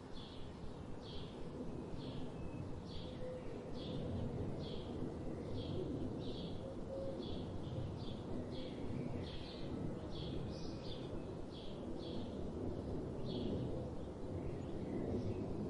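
Forest ambience: a bird repeats a short high chirp at a steady pace, roughly every three quarters of a second, over a steady low rumbling background.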